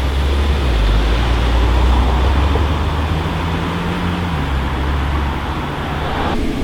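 A car engine running with a deep, steady note over road noise. The engine note drops a step about four seconds in, and the sound changes abruptly near the end.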